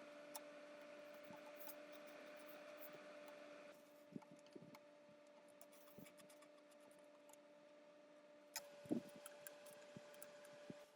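Near silence: a faint steady hum with scattered light clicks and one sharper click about nine seconds in.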